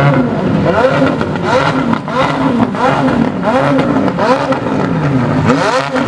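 Supercar engine revving in repeated throttle blips as cars drive slowly past, the pitch swinging up and down about twice a second.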